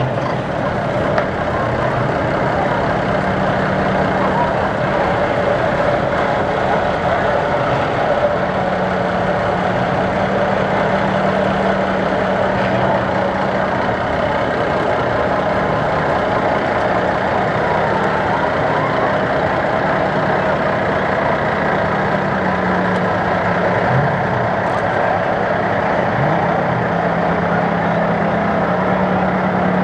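Antique car engines running at low road speed: a steady engine hum whose pitch shifts slightly a few times.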